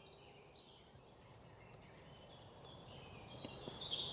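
Faint birdsong: scattered high chirps and short trills over a low background hiss.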